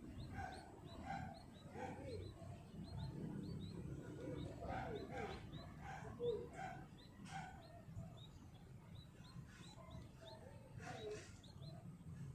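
Birds calling: one bird repeats a short, high chirp about twice a second, while other lower, varied call notes come and go.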